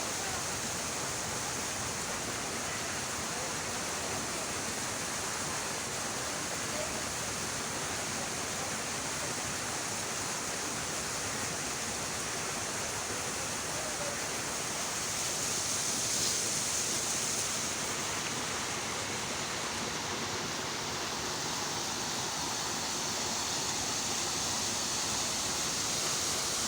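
Steady rushing of running water, swelling slightly about two-thirds of the way through.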